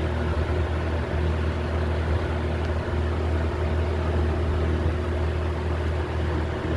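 1989 Toastmaster 20-inch box fan running on high speed: a steady rush of air over a low motor hum.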